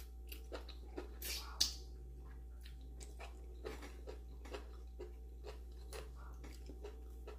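Close-up chewing of a mouthful of food, with many small, sharp mouth clicks; the sharpest click comes about one and a half seconds in, just after a short hiss. Later, a plastic knife and fork work on the plate.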